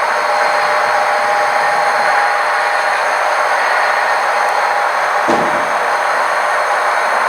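Model train running on the layout: a steady rolling noise with a thin steady whine over it, and a single short knock a little over five seconds in.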